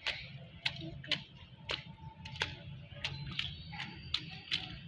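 Irregular sharp clicks, two or three a second, over a steady low rumble: raindrops striking the phone's microphone.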